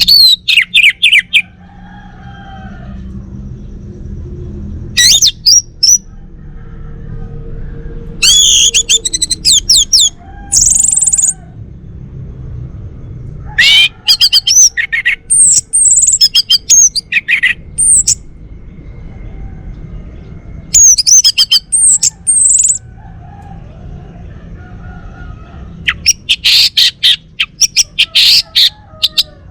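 Male orange-headed thrush singing: about six loud bursts of rapid, varied whistles and trills, each one to three seconds long, with pauses between them.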